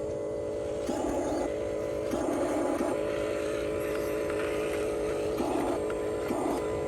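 Small motors of RC construction models running steadily with a pitched whir, swelling louder several times as they are driven harder.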